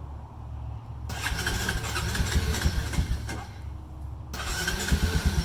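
ATV engine cold-started on choke with its electric starter: it cranks for about three seconds, pauses, then cranks again and catches near the end, settling into a steady idle.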